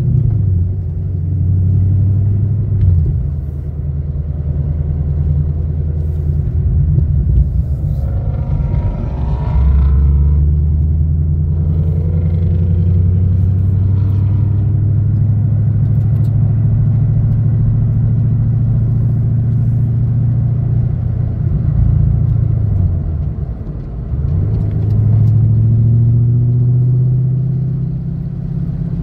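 2016 Chevrolet Camaro SS's 6.2-litre V8, fitted with Stainless Works headers and a full aftermarket exhaust, running at low revs under light throttle as the car picks up speed through the gears, heard from inside the cabin. The engine note dips briefly near the end and then picks up again.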